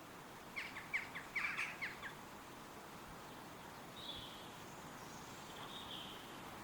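Woodland songbird giving a quick run of sharp chirps about half a second in, then two short higher notes later, over a steady hiss of wind in the trees.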